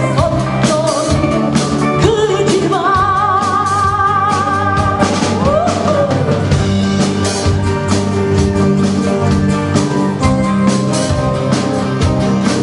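Live rock band music: singing over electric guitar and a drum kit, with a long wavering held note a few seconds in.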